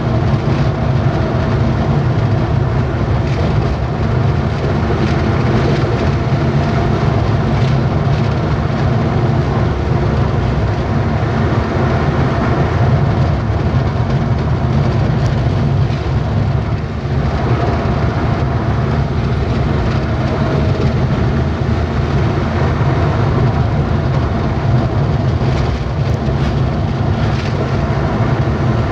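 Truck engine running steadily while the truck is under way, a low hum over continuous road noise.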